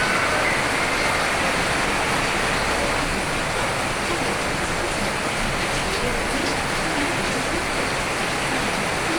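Rain falling steadily: a dense, even hiss that holds the same level throughout, with a few faint drop ticks.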